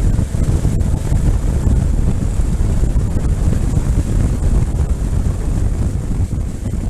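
Heavy wind buffeting on the microphone of a moving motorcycle: a steady, loud low rumble that drowns out most of the engine.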